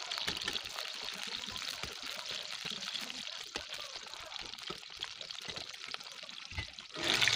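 Okra pods pan-frying in hot oil in a metal wok: a steady soft sizzle, with light scrapes and taps as a slotted metal spatula turns the pods. The sizzle grows suddenly louder about seven seconds in.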